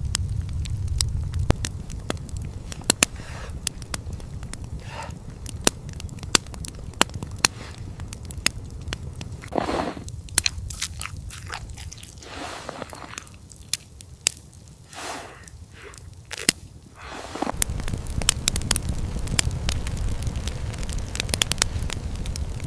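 Wood fire crackling with many sharp pops over a low rumble. The rumble drops away for several seconds in the middle, leaving scattered pops and soft crunches, then returns.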